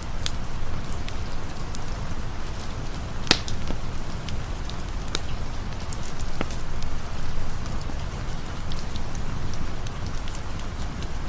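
Steady rainfall over a campfire, the rain an even hiss with a low rumble beneath, and the fire giving scattered sharp crackles and pops, the loudest about three seconds in.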